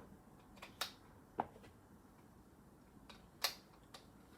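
Plastic Lego pieces clicking as they are snapped together and handled: a few sharp, separate clicks, the loudest about three and a half seconds in.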